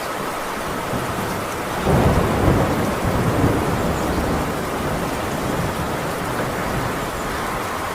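Heavy rain on a tin roof, with a rumble of thunder that breaks in about two seconds in, swells, and slowly dies away under the rain.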